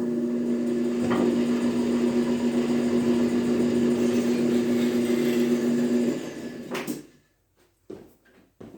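Metal planer's electric drive motor running with a steady strong hum while the cutter takes a stroke that digs into the workpiece surface, a cut too deep for the machine. The motor is switched off about six seconds in and runs down within a second, followed by a few light clicks.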